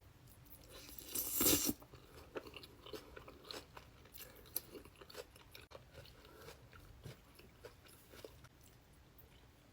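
Close-miked eating: a loud crunchy bite about a second in, followed by chewing with many small crunches.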